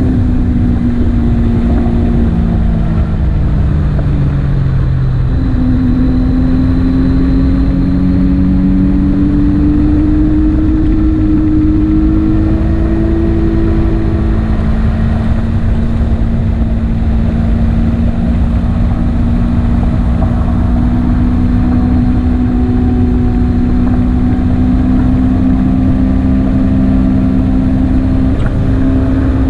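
Motorcycle engine running under way: its pitch drops over the first few seconds, climbs again until about halfway, then holds steady. A heavy low rumble runs under it throughout.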